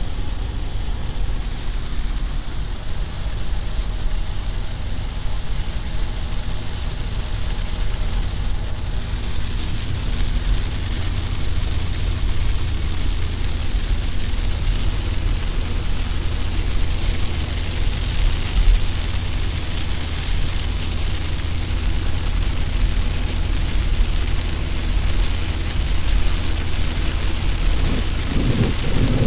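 Steady engine and road drone heard inside a car cruising at about 80 km/h, with a hiss of rain and spray on the windshield that grows louder about nine seconds in.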